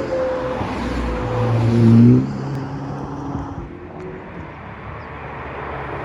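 Ferrari sports cars driving past. One accelerates hard about two seconds in, its engine note rising to a loud peak and then dropping off sharply. Another car's engine grows louder near the end.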